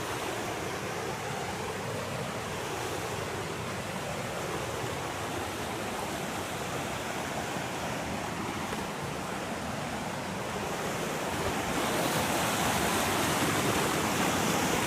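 Creek water rushing steadily; it gets somewhat louder about twelve seconds in.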